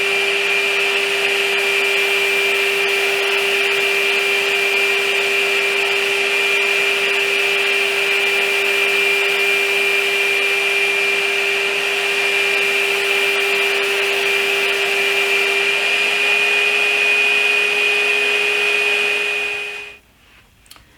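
Domino joiner running steadily with its dust extraction while cutting mortises for dominoes in a cabinet panel, with a steady whine; it shuts off about 20 seconds in.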